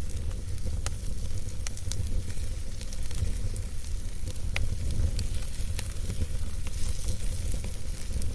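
Campfire burning, with a steady low rumble and scattered sharp crackles and pops of burning wood every second or so.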